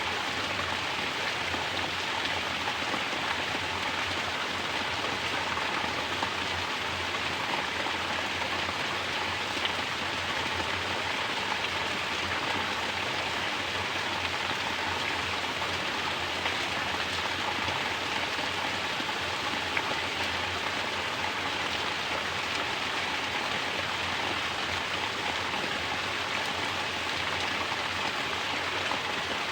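Mountain water falling in a natural shower and splashing below, a steady, even rush of water.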